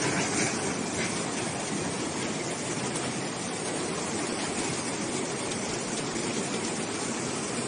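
Steady rushing of floodwater, an even unbroken noise.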